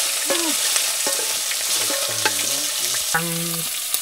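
Steady sizzling, like food frying in a hot pan, with a few short pitched sounds over it and one held for about half a second near the end.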